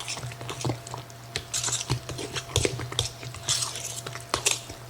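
A utensil stirring thick, wet corn casserole batter in a bowl, with just-added beaten eggs: irregular squelching swishes and sharp clicks against the bowl, several a second.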